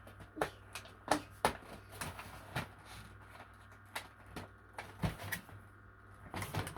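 Irregular clicks, taps and rustles of a toy set's cardboard and plastic packaging being handled and pulled at while it stays stuck.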